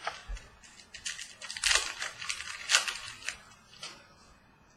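Trading cards and their foil pack being handled: a quick run of short rustling, crinkling and snapping sounds, dying away near the end.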